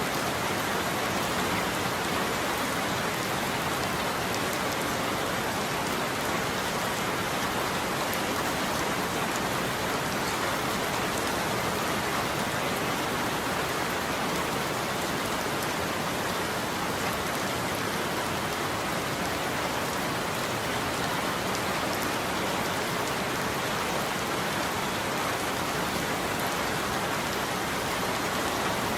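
Steady heavy rain falling on a roof, a dense, even patter of drops with no let-up.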